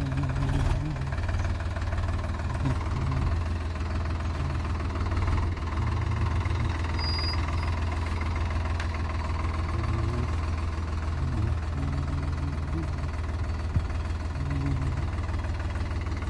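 Sonalika DI 35 Sikander tractor's diesel engine running steadily with a low throb, its level wavering slightly. A single sharp click about fourteen seconds in.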